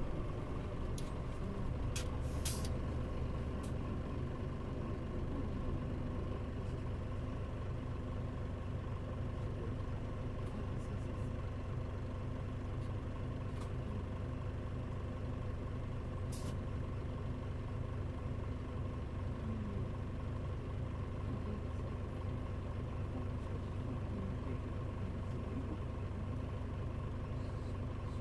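Mitsubishi Fuso Aero Star bus (KL-MP35JM) running, a steady diesel engine drone, with a few brief sharp sounds about two seconds in and once more near the middle.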